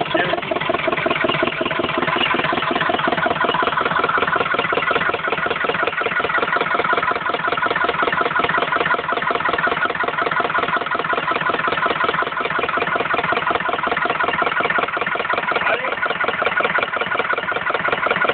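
An engine idling steadily, with an even, rapid firing beat.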